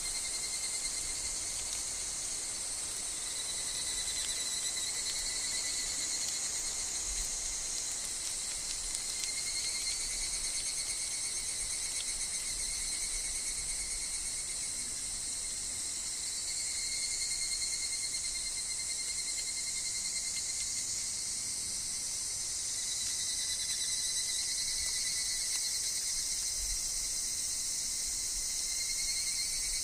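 Steady chorus of calling insects, among them higurashi (evening cicadas, Tanna japonensis): a continuous high-pitched shrill with held tones that shift slightly in pitch every few seconds.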